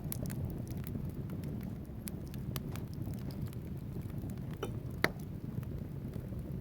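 Wood fire burning in a fireplace: a steady low rush of flames with scattered sharp crackles from the logs, and one louder pop about five seconds in.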